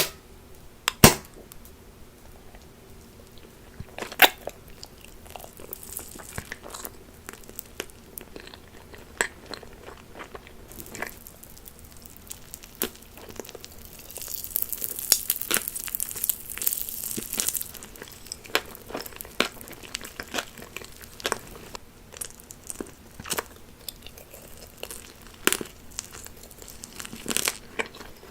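Close-miked eating sounds: crunchy bites, chewing and crinkling, with many sharp cracks and a denser run of crackle about halfway through.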